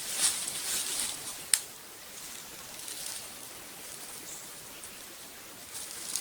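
Dried beef, bacon and onion frying in a pan, a crackling sizzle that is busiest in the first second and a half, with one sharp click about 1.5 s in, then settles to a softer hiss.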